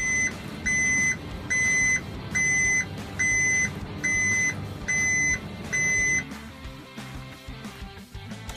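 Eight steady high electronic beeps, about one a second, over cheerful background music.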